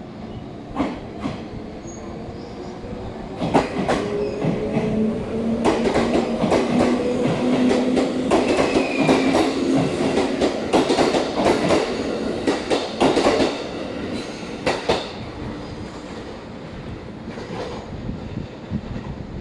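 JR East 211-series electric train running past along the platform, its wheels clattering over the rail joints over a steady motor hum. The clatter is thickest in the middle and dies away in the last few seconds.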